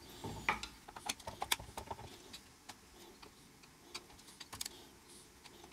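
Faint, irregular small metallic clicks and ticks of a screwdriver loosening screws on a radio's circuit board.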